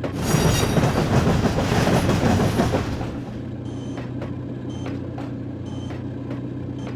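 Passenger train passing on the rails: a loud rush of wheel and rail noise with high wheel squeal for about the first three seconds, dying away to a steady low hum with faint regular ticks.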